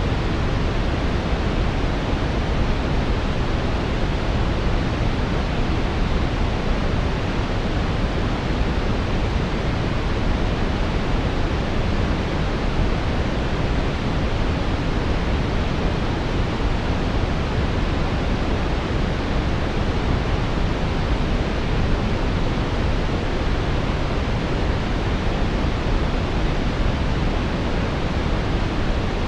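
Steady synthetic brown noise: a deep, even rushing hiss, strongest in the low end and fading toward the highs, with no change or interruption.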